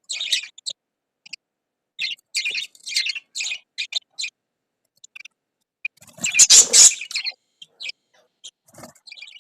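Lovebirds chirping in short, high bursts with gaps between them, with one louder, harsher burst of calls about six seconds in.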